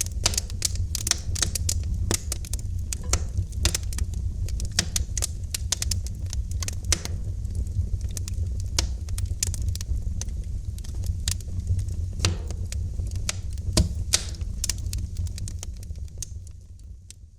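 Wood fire crackling in a fireplace: frequent irregular pops and snaps over a low steady rumble. The sound fades down near the end.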